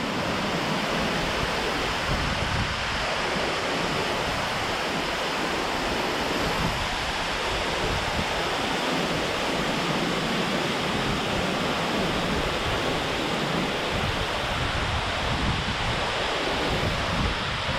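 Rocky Brook Falls heard from close below, a steady dense rush of falling water, with some low rumbling of wind on the microphone.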